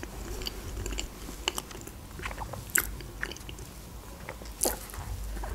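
Close-up chewing and biting of a croissant: scattered small crackles and wet mouth clicks, with the loudest crackle about four and a half seconds in.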